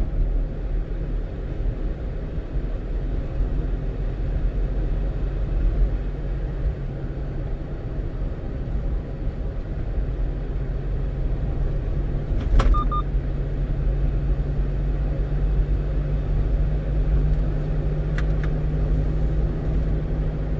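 Steady engine and road rumble inside the cab of a one-ton truck driving on the open road, with one sharp click and a short beep about twelve seconds in.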